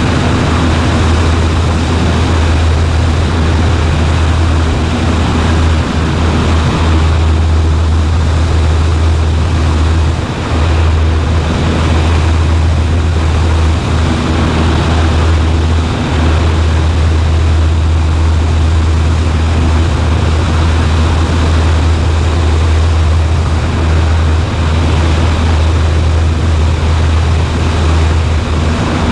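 Cessna 140A's piston engine and propeller droning steadily in flight, a loud, even drone with a strong low hum.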